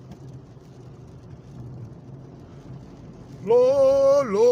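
Steady low hum of a moving car heard from inside the cabin, then about three and a half seconds in a man's loud, drawn-out exclamation, a long held "Oh my Lord".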